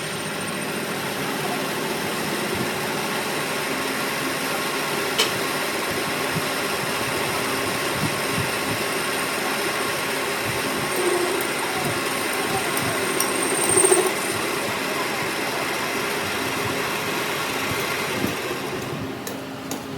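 A workshop machine running steadily with a constant hum, a single click about five seconds in and two brief louder swells midway.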